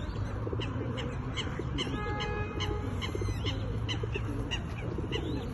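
Many birds chirping in quick short calls over a murmur of people's voices, with one brief held honking call about two seconds in.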